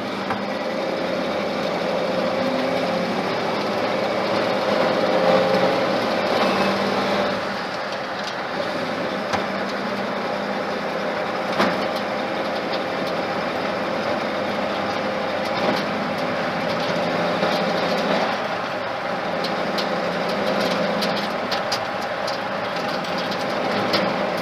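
Ford flathead engine running in an old truck, its note drifting up and down with the revs, with a few sharp clicks and knocks.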